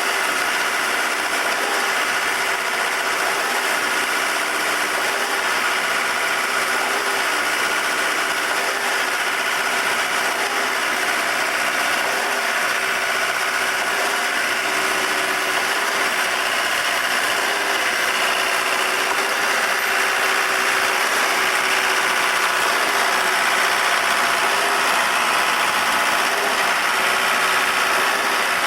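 REED A40HP trailer concrete pump running steadily, its engine note rising and falling in a repeating cycle about every two to three seconds.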